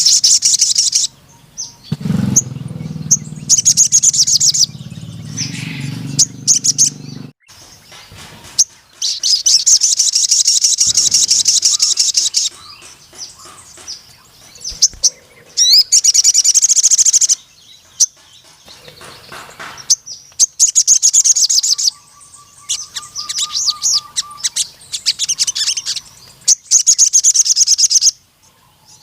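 Sogon (ruby-cheeked sunbird) singing in full song: bursts of very rapid, high-pitched trilling, each one to three seconds long, repeated with short pauses. A low droning sound runs underneath for a few seconds near the start.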